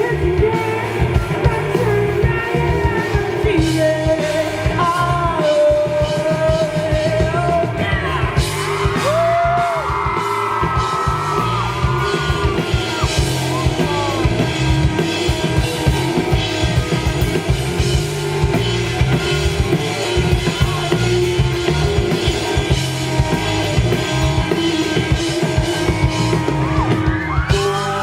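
Rock band playing live with a steady, dense drum beat and a voice singing over it, including one long held note.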